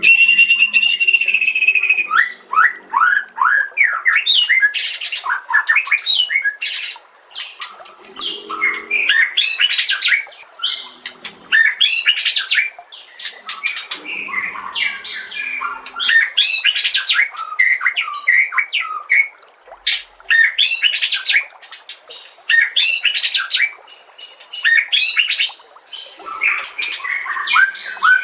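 White-rumped shama (murai batu) singing loud, fast, varied phrases of one to three seconds each, with short pauses between them.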